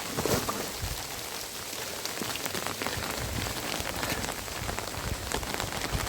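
Rain falling steadily, with many separate drop hits ticking on surfaces.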